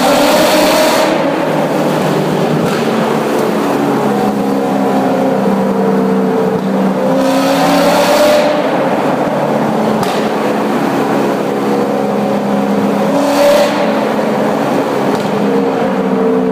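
Corvette V8 engine, about 500 hp, running loud inside a tunnel over a steady drone, revved up in short surges three times: near the start, about halfway, and near the end.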